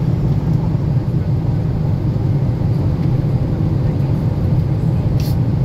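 Boeing 777 cabin noise in cruise: a steady low rumble and rush of engines and airflow. A brief light click about five seconds in.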